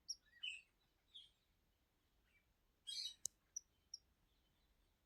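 Faint, scattered short high chirps of small birds, a few at the start and a cluster about three seconds in, with a single sharp click just after.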